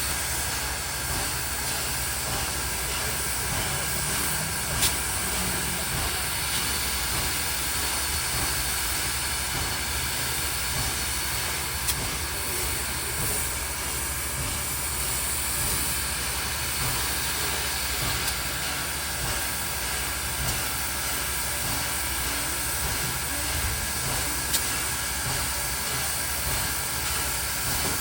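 A train rolling past: a steady rumble and hiss of wheels on rail, with a few sharp clicks.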